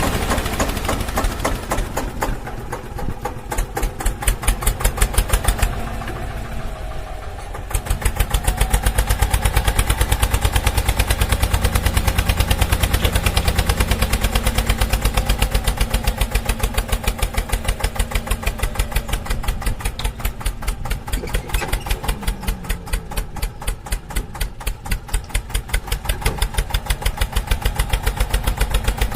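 Small engine of a mini tractor running with a rapid, even beat of firing pulses. It gets noticeably louder about eight seconds in, then runs on steadily.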